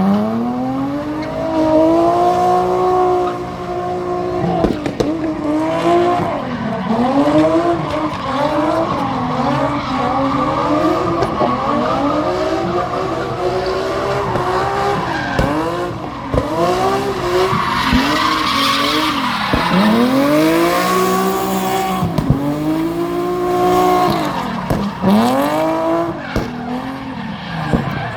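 A drift car's engine revving up and down over and over as the throttle is worked through the slides, with tyres skidding and squealing. A louder spell of tyre noise comes about two-thirds of the way through.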